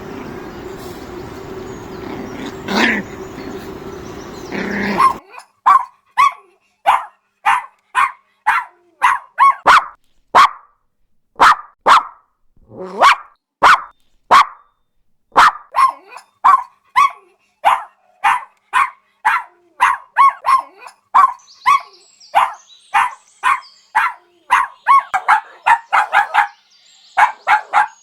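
Puppy barking over and over in short, sharp barks, about two a second, starting about five seconds in. Before that there is a steady noisy background with one louder sound near three seconds.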